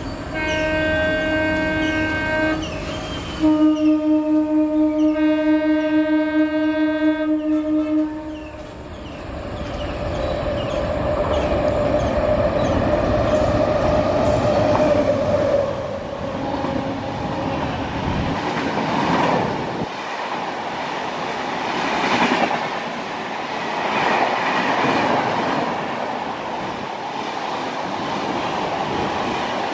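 WAP-7 electric locomotive's horn sounding twice, the second blast longer and louder and ending about eight seconds in. Then the express runs past at speed, the coaches' wheels clattering over the rail joints in repeated surges.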